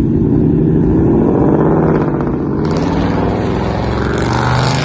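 Loud car engine and exhaust running under throttle, turning harsher and brighter over the last two seconds.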